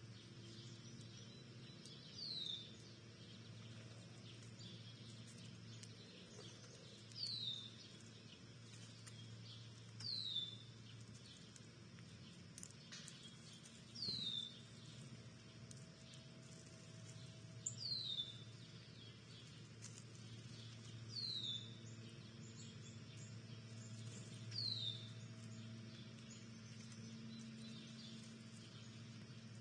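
A bird repeating a single short call note that slides down in pitch, about every three to four seconds, eight times in all, over a steady low hum.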